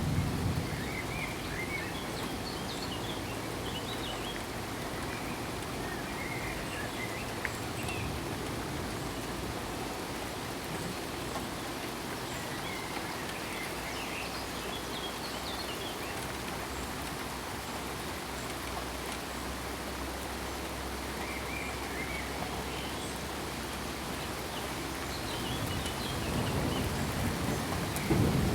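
Steady rain falling, with a few short high chirps now and then. A low rumble of thunder builds near the end.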